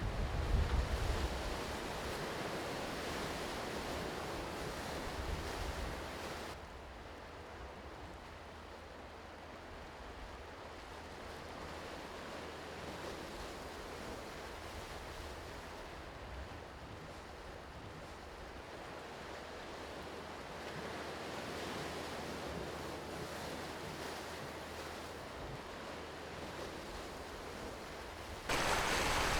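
Sea waves washing along the shore, with some wind on the microphone. The sound drops suddenly to a quieter wash about six seconds in and gets louder again abruptly near the end.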